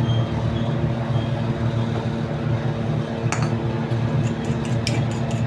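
A steady low mechanical hum, with a few light clicks or clinks in the last couple of seconds.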